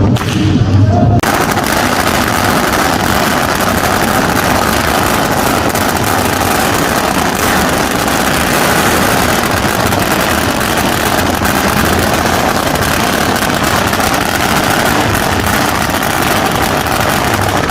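A long string of firecrackers going off in a dense, rapid crackle of bangs. It starts about a second in and carries on without a break.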